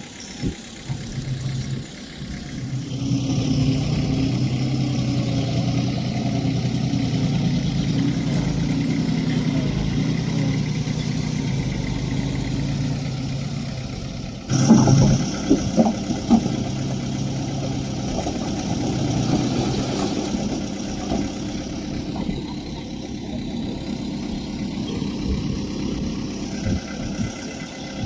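Diesel engine of heavy earthmoving machinery running, its note rising and then holding steady about three seconds in. About halfway through comes a sudden burst of loud clanking and knocks lasting a couple of seconds, then the engine runs on steadily.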